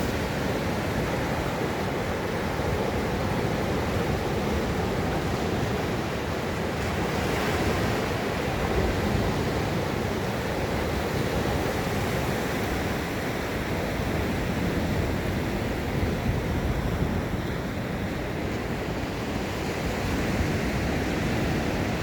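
Ocean surf washing onto a beach in a steady, continuous rush, with a gentle swell of breaking wave about seven to nine seconds in. Wind buffets the microphone with a low rumble.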